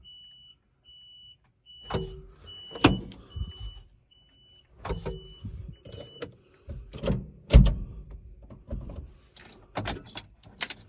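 Reverse warning beeper on an electric mini truck sounding a steady run of high beeps, about one every 0.8 seconds, which signals that the truck is in reverse. The beeping stops about six seconds in. Knocks and clunks are heard throughout, the loudest thump coming about seven and a half seconds in.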